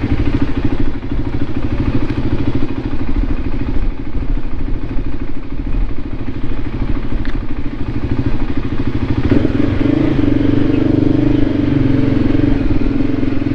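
Single-cylinder engine of a Voge 300 Rally motorcycle running at a steady idle, its rapid even pulse heard throughout; about nine seconds in it grows louder and fuller.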